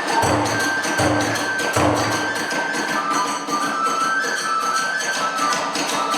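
Kagura festival music: a large drum struck three times in the first two seconds, small hand cymbals clashing rapidly throughout, and a bamboo flute playing a stepping melody.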